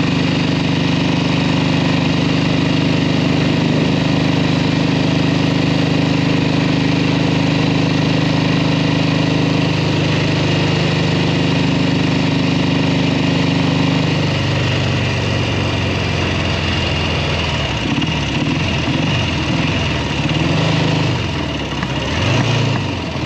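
1967 Kawasaki W1 650's parallel-twin engine running under way at a steady speed, then the revs drop about fourteen seconds in and rise and fall over the last few seconds. The rider is putting it home with its second carburetor not working right.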